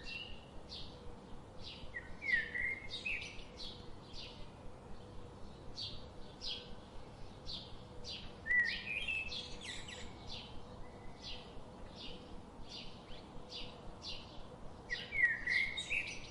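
Birds calling: a steady series of short, high chirps about twice a second, with a few louder, sliding calls about two seconds in, eight and a half seconds in, and again near the end.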